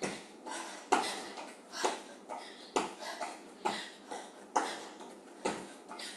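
Running shoes landing on the floor in a steady rhythm of jumping jacks, a sharp thud about once a second with lighter footfalls between, along with short, hard breaths.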